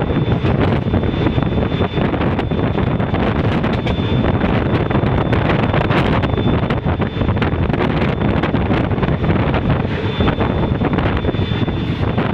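Betwa Express passenger train running at speed, heard from beside its moving coach: a steady loud rumble with many irregular clicks from the wheels and track, and wind buffeting the microphone.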